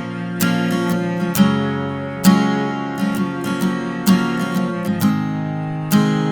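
Acoustic guitar strumming slow chords in an instrumental passage of a ballad, a fresh strum about every second, with no singing.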